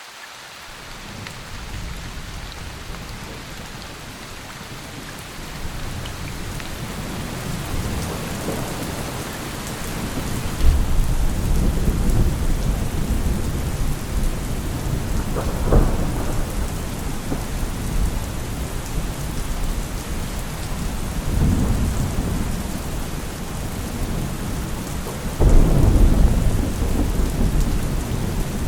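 Steady rain with rolling thunder. Low rumbles build and swell, with a loud one about ten seconds in, a brief crack about halfway, and another heavy roll near the end.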